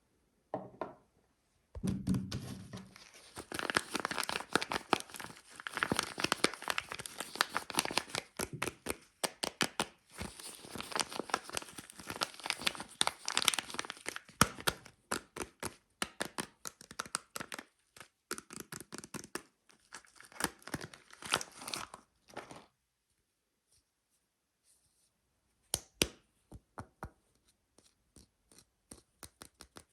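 Soap packaging being torn open and crinkled in the hands, a dense crackling run with a few short pauses that stops about three quarters of the way through. A few separate sharp taps follow near the end.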